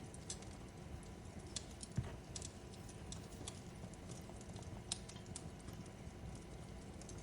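Wood fire crackling in a fireplace: a steady low rumble with irregular sharp pops and snaps, the loudest about two seconds in.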